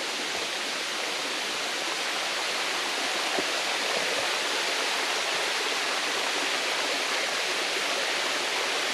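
Waterfall on Panther Creek rushing: a steady, unbroken wash of falling water that grows a little louder over the first few seconds and then holds.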